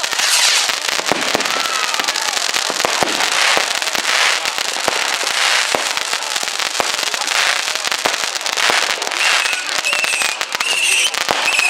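Fireworks going off in a dense, continuous run of rapid crackling bangs over a hiss, with a few high wavering squeals near the end.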